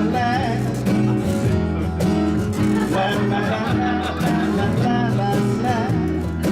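Live band playing a song's instrumental passage: guitar and bass, with a wavering melody line above them.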